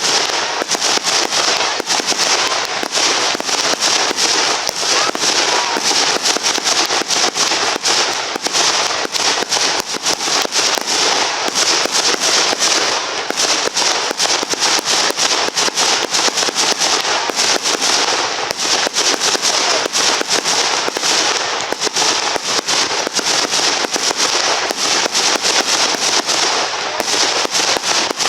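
Fireworks display in a dense, unbroken barrage of bangs and crackles, many shots overlapping every second. Loud.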